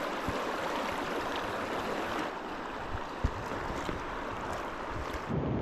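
Steady rush of fast river current. A dull bump sounds about three seconds in, and near the end the sound changes abruptly to a lower rumble.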